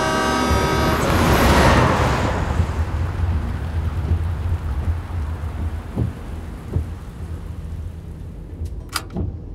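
Rain with a rumble of thunder that swells about a second in and slowly fades, over the steady low rumble and hiss of a car driving on a wet road.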